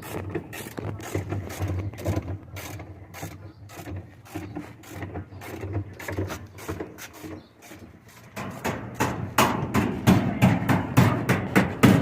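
Hand tools clicking, ratcheting and scraping in a quick irregular patter over a low steady hum, growing louder and denser about eight seconds in.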